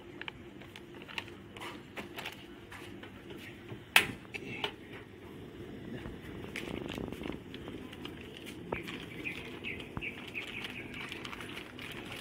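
Small birds chirping, with scattered clicks and one sharp knock about four seconds in.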